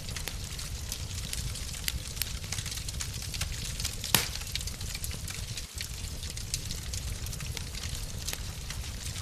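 Wood fire crackling in a fireplace: frequent small pops and ticks over a low steady rumble, with one louder snap about four seconds in.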